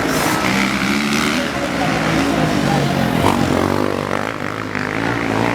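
Motocross dirt bike engines revving and changing pitch as the bikes race on the track, with voices mixed in.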